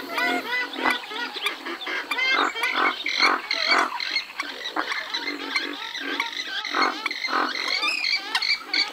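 Western swamphens calling: a dense run of overlapping squawking calls from several birds, one after another without a pause.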